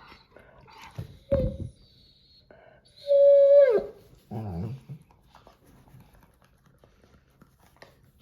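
Dog vocalising: a short whine about a second in, then a loud held whine about three seconds in that slides down in pitch at its end, followed by a lower, rougher sound.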